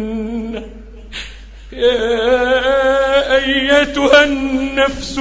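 A man reciting the Quran in melodic tajweed style. A held note trails off, then comes a pause of about a second, then a long drawn-out ornamented phrase with wavering pitch.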